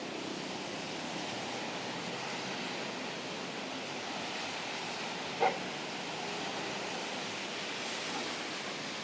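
Steady hiss of falling rain. About five and a half seconds in, one brief, short high chirp-like sound stands out above it.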